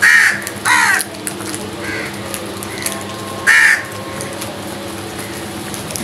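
Crows cawing: three loud caws, at the start, just under a second in and about three and a half seconds in, with fainter caws between.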